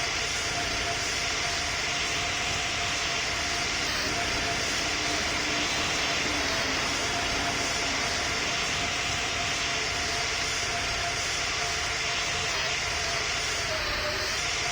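Airbus A220's Pratt & Whitney PW1500G geared turbofan engines running: a steady jet roar with a faint constant hum and no change in level.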